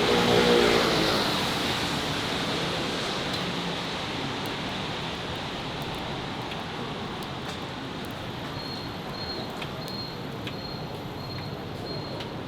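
A motor vehicle passes close at the start, its engine note peaking and then fading away, over steady city street traffic noise. In the second half a faint high beep repeats at an even pace.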